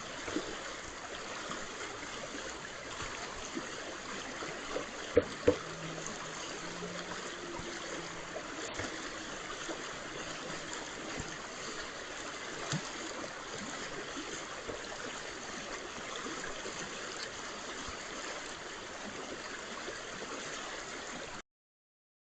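McCaslin Brook running: a steady rush of flowing water. Two sharp knocks come close together about five seconds in, and the sound cuts off near the end.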